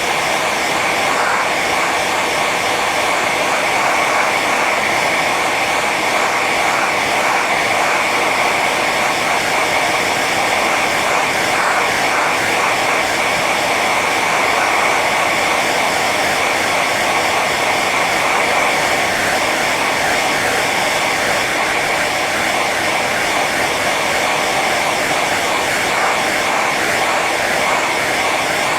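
Hand-held hair dryer running steadily on its high setting: a loud, even rush of air with a steady whine from the fan motor.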